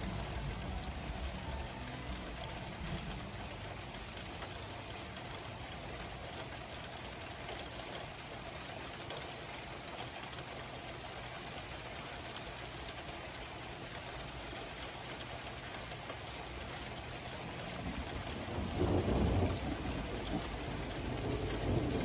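Steady rain falling, with a low roll of thunder swelling near the end.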